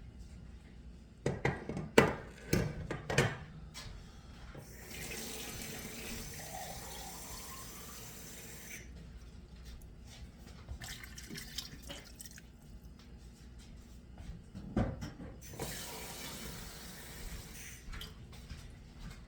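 Kitchen tap running for about four seconds, then again briefly near the end. Before the first run there are several sharp knocks, with another knock just before the second.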